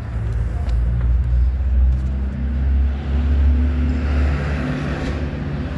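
Road traffic: a steady low rumble of car engines, with a vehicle growing louder as it passes about three to four seconds in.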